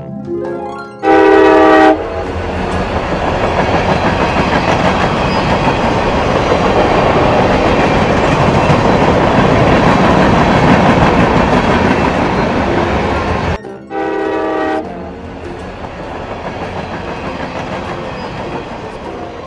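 A train horn blows briefly, then a train passes with a loud rattling rumble of wheels on rails that swells and fades over about eleven seconds and cuts off suddenly. A second short horn blast follows, then a fainter rhythmic clatter.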